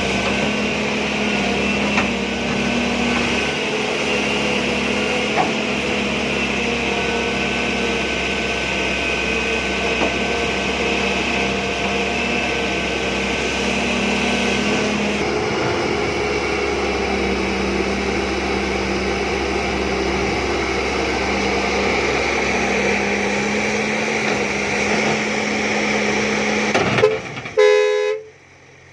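John Deere 595D excavator running steadily, its engine and hydraulics giving a steady drone with held tones and a few single clicks. Near the end a short horn-like tone sounds, then the sound drops away abruptly.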